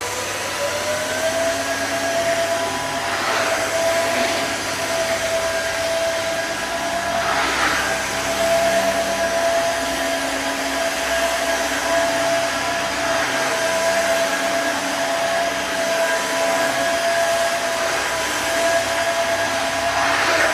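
Cordless wet-dry floor-washer vacuum running: a steady motor whine over an even rush of air, rising in pitch during its first second as the motor spins up, then holding steady.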